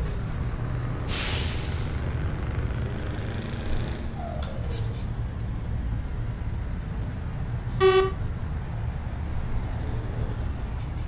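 Scania R730's V8 diesel engine running with a steady low drone as the truck drives. A short hiss of compressed air comes about a second in, and a brief high toot sounds once near the end.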